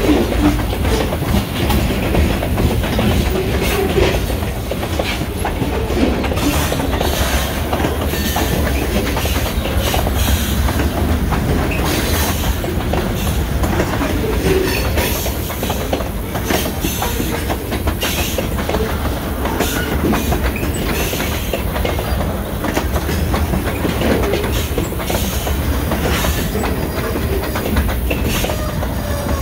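Freight train cars, mostly covered hoppers, rolling steadily past close by: a continuous low rumble with the wheels clicking and knocking irregularly on the rails.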